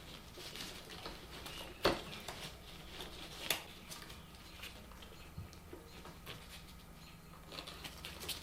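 Ceiling fan canopy and downrod hardware being handled: scattered light clicks, taps and rustles, with two sharper knocks about two and three and a half seconds in, over a faint steady low hum.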